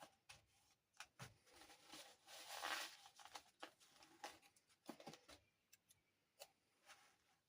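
Faint clicks and taps of small toy dollhouse furniture pieces being handled, with a brief rustle of packaging about two to three seconds in.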